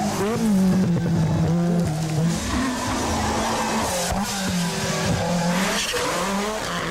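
Group B rally car engine at full chat, its note rising and falling several times in quick succession.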